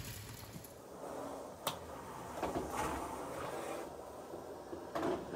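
Household handling sounds: a sharp click a little under two seconds in, then a few soft knocks.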